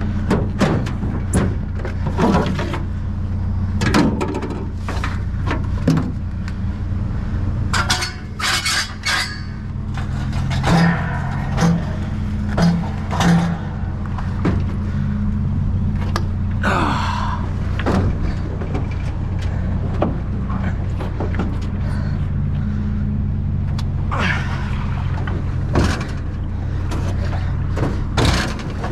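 A vehicle engine idles steadily underneath. Repeated metal clanks, knocks and thumps sound over it as a discarded hot water tank is handled and loaded.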